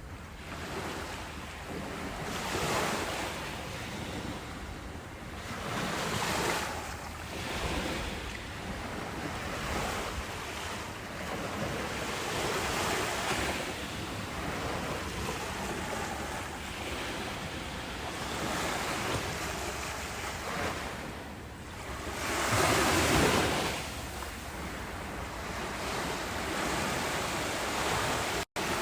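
Ocean waves washing in and breaking, a steady surf hiss that swells and ebbs every few seconds, with the biggest wave about three quarters of the way through. The sound drops out for a split second near the end.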